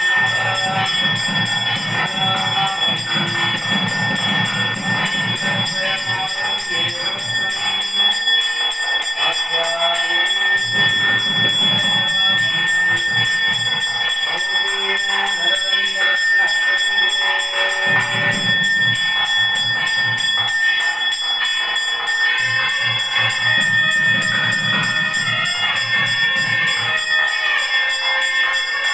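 Temple bells ringing continuously, with a steady high ringing tone throughout, over music whose low part comes and goes every few seconds.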